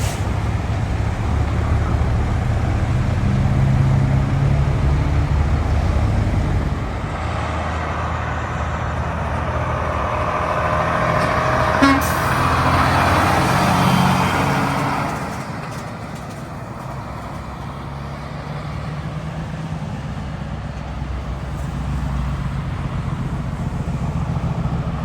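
Road traffic: truck engines running past, with one vehicle passing close in the middle, its engine and tyre noise swelling and then falling away.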